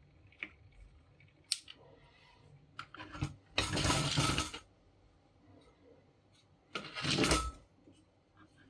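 Handling noises: a few sharp clicks and two short noisy rattles, the longer one about three and a half seconds in and a shorter one near seven seconds.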